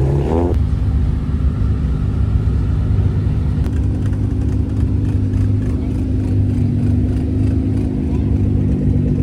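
Car engine blipped with a quick rise in revs at the start, then running steadily at low revs.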